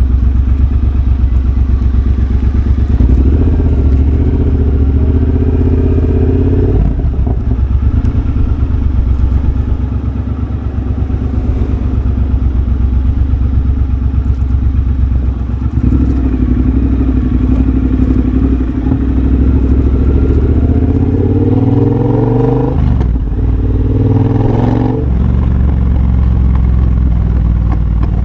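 2023 Triumph Bobber's 1200 cc parallel-twin engine running through a de-catted X-pipe and Motone Shorty exhaust while riding. It pulls strongly for a few seconds, eases off for several seconds, then accelerates again with a climbing note that breaks off twice in quick succession, as on upshifts, before settling into a steady cruise.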